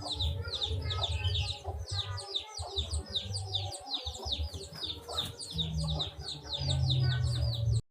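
Chickens clucking under a constant run of short, high, falling peeps, several a second. A low steady hum comes in for the last two seconds or so.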